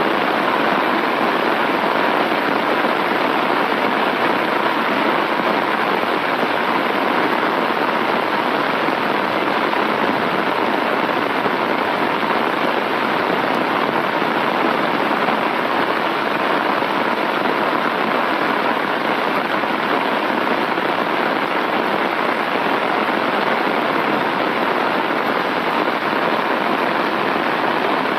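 Heavy rain falling steadily, pattering on an umbrella held just over the microphone.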